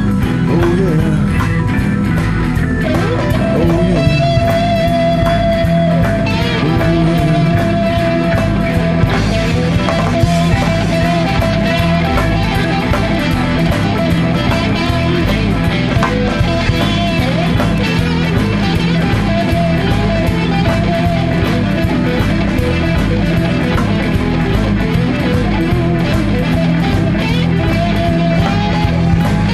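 Blues-rock band playing instrumentally: a lead guitar with long held, bending notes over bass and drums.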